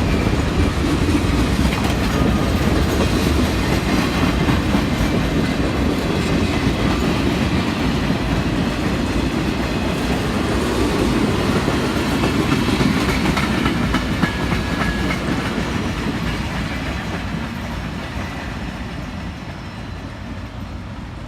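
Railroad cars of a work train rolling past, a steady rumble with wheels clicking over rail joints, fading away over the last few seconds as the train moves off.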